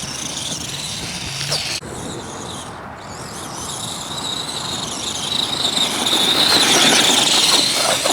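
An Arrma Gorgon 1/10-scale RC monster truck's electric motor and geartrain whining at a high pitch as it drives. The whine grows louder over the second half and is loudest near the end.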